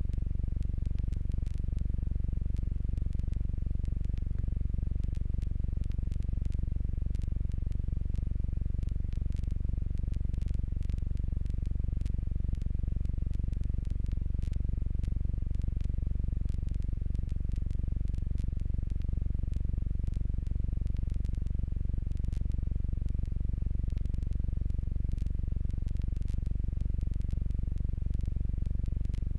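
Steady low drone of the Jabiru J120's four-cylinder engine and propeller heard from inside the cockpit, with faint scattered clicks.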